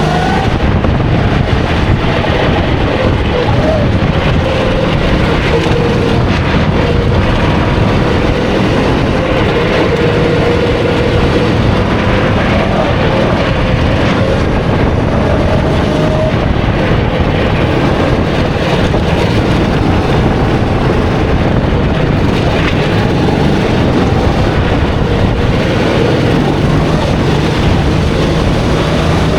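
270cc kart engine running on track, its note dropping early on, staying low through a long stretch with small rises, and climbing again near the end, under a loud steady rush of noise.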